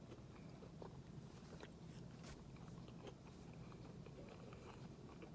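Faint chewing of a mouthful of chewy oat-and-cashew granola bar, with scattered soft irregular mouth clicks.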